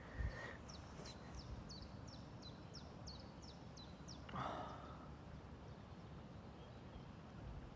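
A small bird singing a run of short, high, downward-sliding notes, about three a second, for the first three seconds. A brief louder sound comes about four seconds in, over a steady low rumble of outdoor background noise.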